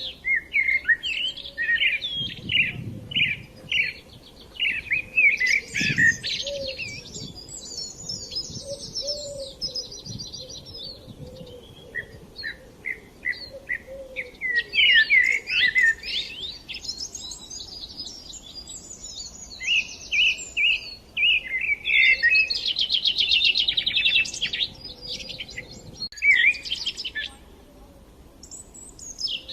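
Several small songbirds chirping and twittering in quick overlapping phrases, with fast buzzy trills, in bursts broken by short lulls.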